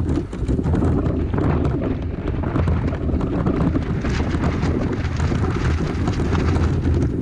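Strong gusty wind buffeting the microphone in a loud, continuous low rumble, with fainter hissing of water and spray above it.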